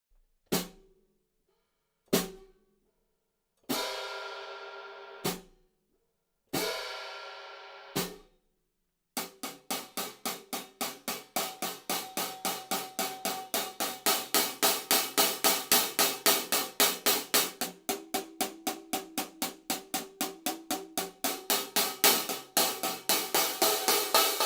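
Mehteran 15" Rain hi-hat played: a few single strikes at first, two of them left ringing open for over a second before cutting off. From about nine seconds in it settles into a steady, fast, even rhythm of strokes that grows louder toward the end.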